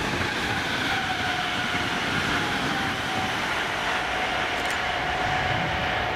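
ScotRail Class 320 electric multiple unit approaching in the distance: a steady rumble of wheels on rail with a faint high whine.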